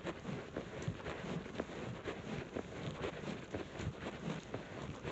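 Body-worn camera jostling against clothing during a walk: a dense, irregular run of knocks and rustles, several a second, with footsteps.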